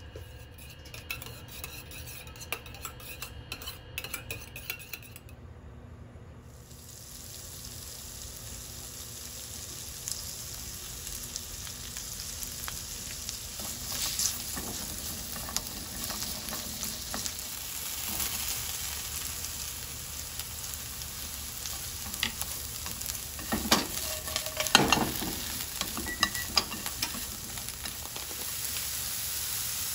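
Lotus root stir-fry sizzling in oil in a frying pan. After a few seconds of light clicks the steady sizzle starts, and it is stirred with scrapes and clatters in the second half, loudest a few seconds before the end.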